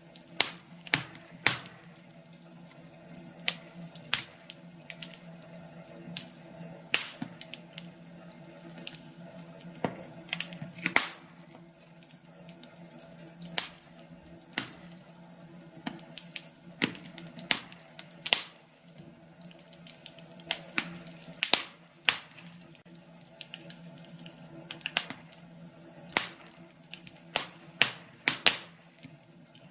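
Wood fire burning in a fireplace: logs crackling with irregular sharp pops and snaps, several a second at times, over a low steady hiss.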